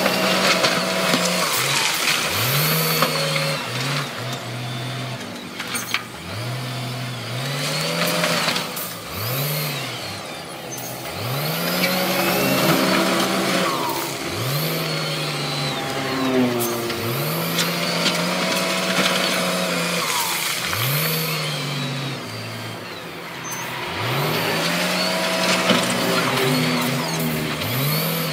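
Engine revving over and over, its pitch climbing and levelling off every second or two.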